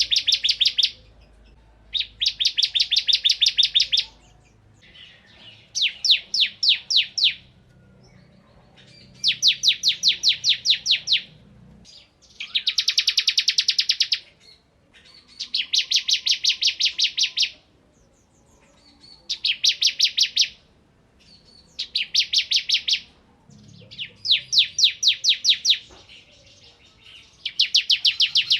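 Bar-winged prinia (ciblek) singing in rapid rattling trills of sharp high notes. Each phrase lasts about two seconds and is repeated every few seconds, about eight times in all.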